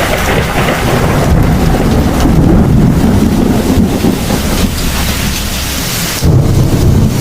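Heavy rain with thunder rumbling low and continuous; a fresh, louder peal of thunder breaks in suddenly about six seconds in.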